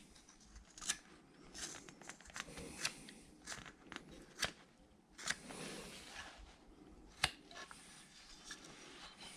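Carving knife paring small shavings from a wooden figure: faint slicing and scraping cuts, with a few sharp clicks as the blade snaps through the wood.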